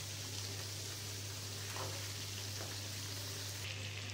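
Amla pickle frying in gingelly oil in a pan, a soft, steady sizzle with a few faint spatula scrapes as it is stirred on low heat. A steady low hum runs underneath.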